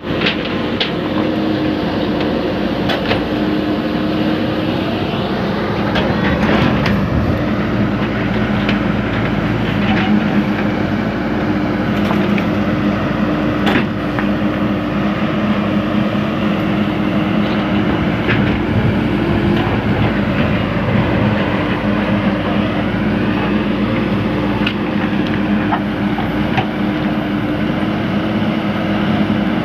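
A JCB digger's diesel engine running steadily under work, with a few sharp knocks from the machine scattered through it.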